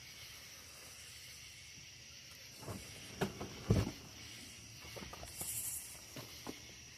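Light knocks and clicks from lawnmower parts and packaging being handled during unboxing, the loudest knock just before the middle, with a short rustle of packaging later on, over a faint steady hiss.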